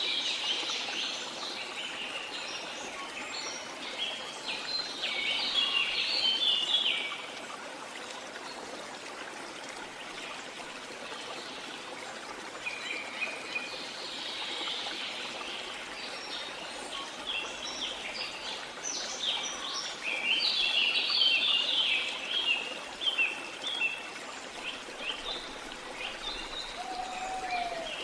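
Running water, a stream or small waterfall, with a chorus of rainforest birds singing over it in two busy spells, the first ending about a quarter of the way in and the second running through most of the later half.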